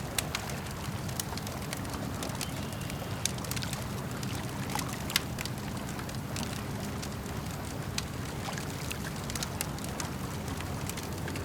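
Campfire crackling, with sharp pops scattered irregularly over a steady low wash of lake water lapping. The loudest pops come just after the start, a little past three seconds in, and around five seconds in.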